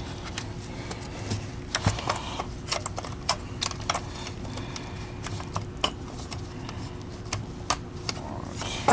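Plastic parts of a vacuum cleaner power head being handled and fitted together: scattered, irregular clicks and light knocks, over a steady low hum.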